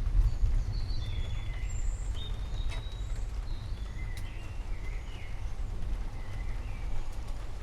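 Forest birds chirping and whistling in short repeated calls over a steady low rumble, with a few sharp clicks.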